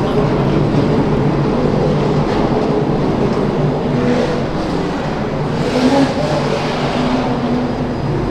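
Race car engine running, a loud steady drone whose pitch shifts a little up and down.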